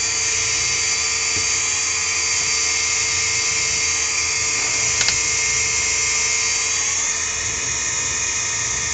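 Electric fuel pumps running with a steady high-pitched whine; one pump is so loud that it drowns out the standard pump. A brief click about five seconds in.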